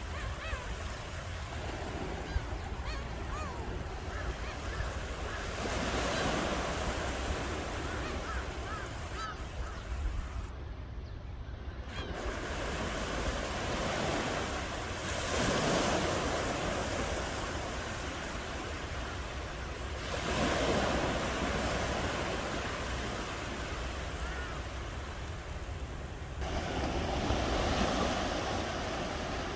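Ocean waves breaking on a shore: four waves surge in and wash back, each a swell of rushing noise, over a constant low rumble.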